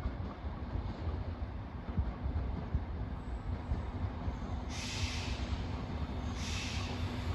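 A train running through the station, with a steady low rumble of wheels on the track. Two brief hissing bursts come about five and seven seconds in.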